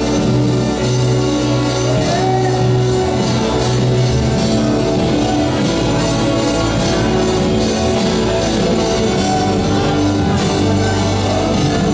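Live worship band playing a sustained, steady song with guitar, drums and singing.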